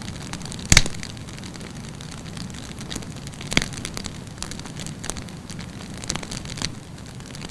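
Wood campfire burning with a steady low rush and scattered sharp crackles and pops, the loudest pop under a second in and another about three and a half seconds in.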